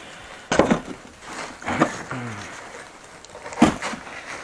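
A few short, sharp knocks of brick masonry being struck during demolition, three in all, the sharpest near the end.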